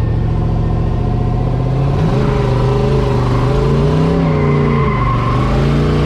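Drift truck's engine revving under throttle during a spin. The pitch climbs about two seconds in, then rises and falls as the throttle is worked.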